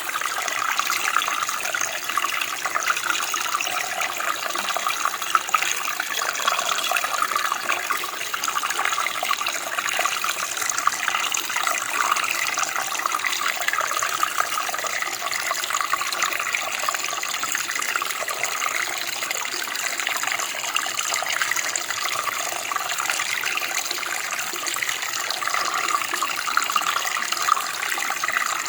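Running water, a steady splashing flow like a small stream or cascade.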